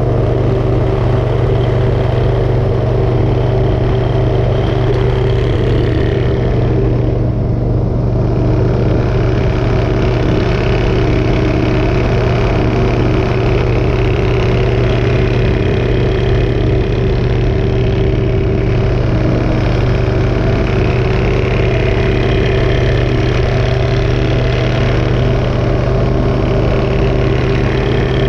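Motorcycle engine running at a steady pitch, with no revving or change in speed.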